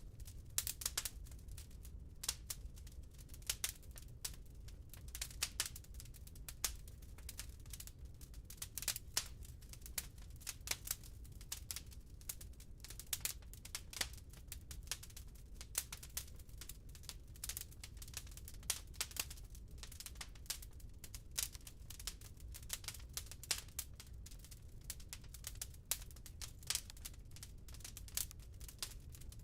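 Wood burning in a fireplace, crackling with irregular sharp pops, several a second, over a steady low rumble.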